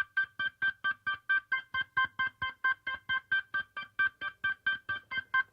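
Music: one electric-keyboard note repeated evenly, about four short notes a second, as the opening of a song before the band comes in.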